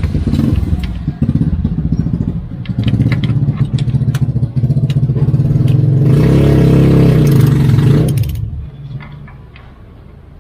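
A motor vehicle's engine passing close by, loudest about six to eight seconds in and then fading away, with short clicks and clatter over it.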